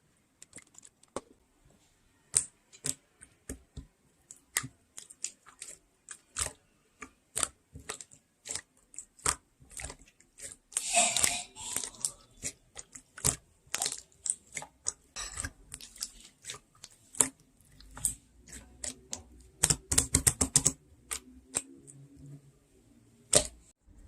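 Slime being pressed and poked by hand, giving many sharp sticky clicks and small air pops, with a denser crackling stretch about eleven seconds in and a quick run of pops around twenty seconds.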